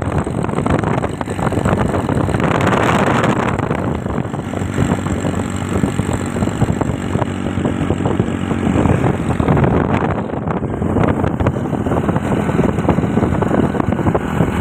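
Motorcycle riding along, its engine running steadily under heavy wind noise buffeting the microphone.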